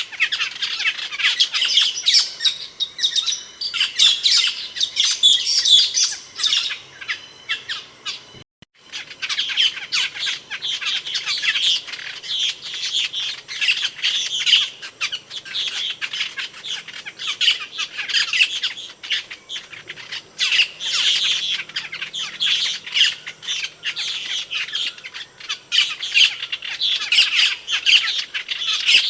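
Asian glossy starling calls: a dense, fast run of sharp, overlapping chirps and squawks, cut off for a moment about eight and a half seconds in.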